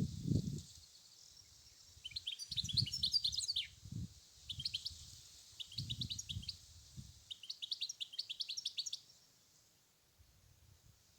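European goldfinch singing: four phrases of rapid, high twittering notes, the last ending about nine seconds in. Irregular low rumbles sit underneath through the first two-thirds.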